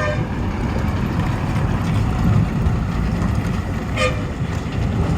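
Heavy trucks' diesel engines labouring through a steep hairpin turn, a deep continuous rumble, with a short horn toot about four seconds in.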